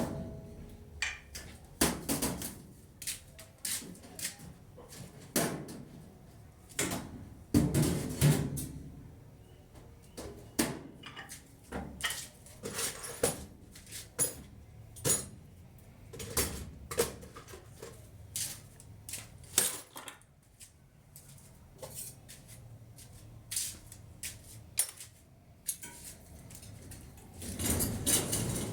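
Irregular clinks, clanks and knocks of metal parts being handled and fitted on a food cart, with short gaps between them.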